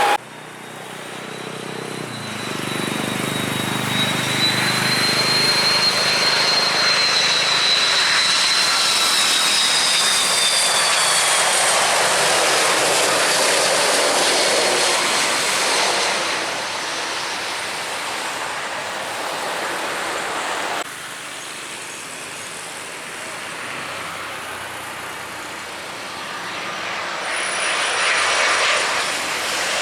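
Airliner jet engines passing: a loud, steady roar with a high fan whine that rises and then falls away. The sound cuts abruptly about two-thirds of the way through, and then another aircraft's roar builds up near the end.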